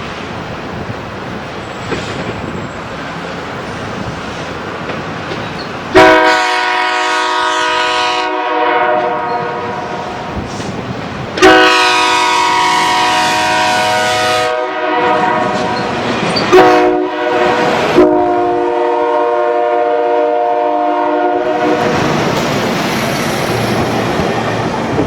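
Locomotive air horn sounding a chord of several notes in the grade-crossing pattern: two long blasts, one short, then one long. The blasts come over the rumble of the approaching train, and clickety-clack of the cars follows.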